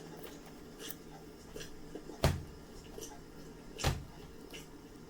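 Plastic DVD case and disc being handled: a few faint clicks and two sharper knocks about a second and a half apart.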